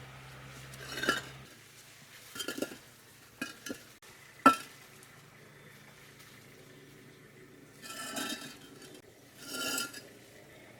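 Concrete blocks clinking and knocking against one another as they are set down and stacked: several separate hard knocks with a brief ring, the sharpest about four and a half seconds in.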